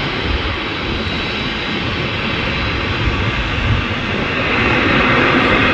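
Jet airliner engines running steadily, with a thin high whine over the noise, growing louder about four seconds in.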